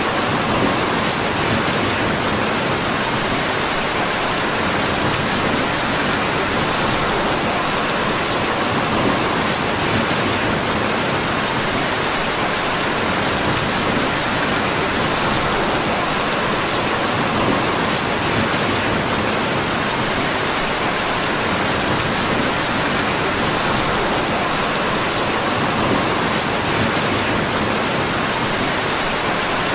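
Steady rain falling: an even, unbroken hiss with a few faint scattered ticks.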